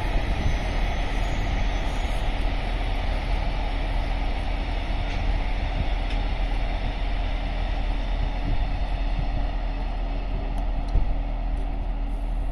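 Freight train passing, a steady heavy rumble of wagons on the rails with a faint steady hum, and a single louder knock near the end.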